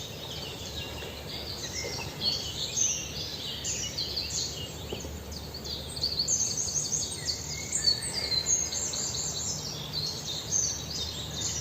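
Small birds chirping in a dense chorus of rapid, overlapping high chirps, growing busier about halfway through.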